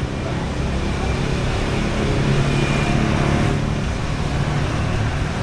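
Street traffic noise with a vehicle engine running past, loudest about two to four seconds in.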